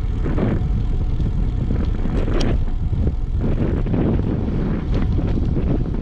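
Wind buffeting the microphone of a moving bicycle camera: a steady, loud low rumble with a few brief rattles.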